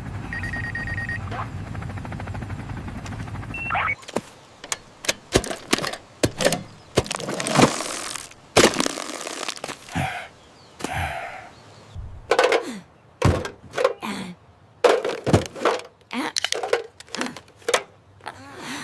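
A steady noise with a low hum for about four seconds, then a long irregular series of sharp knocks and thunks, some of them cracking.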